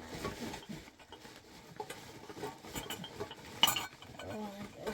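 Metal cooking utensils stirring, scraping and clinking against a pot, with one sharper clink about three and a half seconds in.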